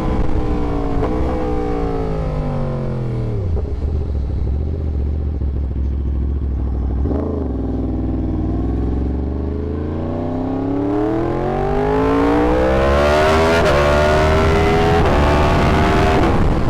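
Yamaha R1 motorcycle's inline-four engine coasting down to a low idle, given one short throttle blip about halfway through, then accelerating hard with rising revs and a couple of gear changes near the end, wind noise building as speed picks up.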